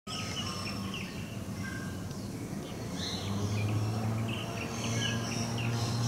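Birds chirping in many short, quick calls over a steady low hum, which gets louder about three seconds in.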